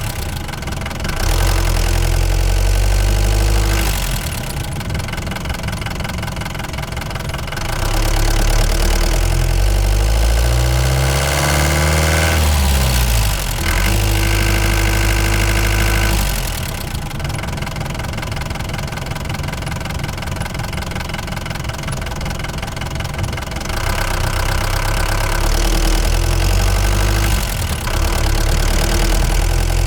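Ford Transit Mk5 van engine running while driving. Its note sweeps up and down around the middle, and the engine gets louder and quieter in several long stretches as the driver changes throttle.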